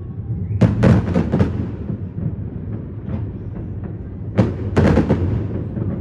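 Fireworks going off: two quick clusters of sharp bangs and crackles, one about half a second in and another past four seconds, over a steady low rumble.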